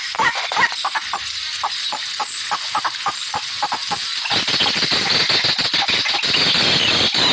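Small birds calling: scattered short chirps and squeaks, thickening about four seconds in into a dense, continuous high chattering like a flock.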